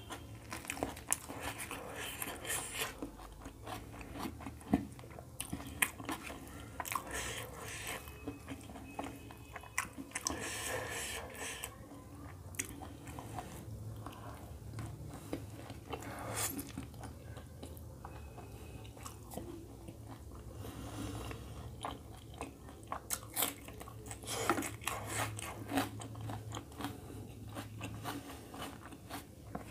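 A man chewing roti with egg curry, with wet mouth smacks and clicks coming irregularly throughout, and the soft tearing of flatbread by hand.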